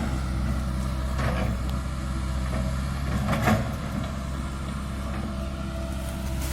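Komatsu PC160-8LC excavator's diesel engine running steadily at a low, even hum while it works, with two short louder noises about one and three and a half seconds in.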